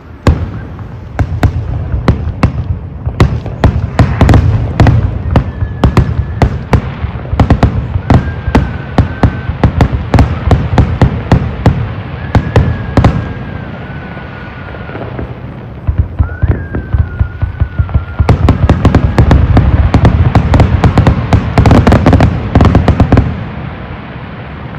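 Aerial fireworks display: a rapid barrage of bangs and crackling over a deep rumble, with a few thin wavering tones above it. It thins out midway, then builds to its densest volley before dropping off abruptly near the end.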